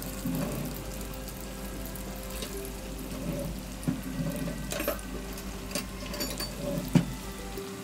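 Chicken shami kababs frying in hot oil over a high flame: a steady sizzle with crackles, and a few sharp knocks, the loudest about seven seconds in.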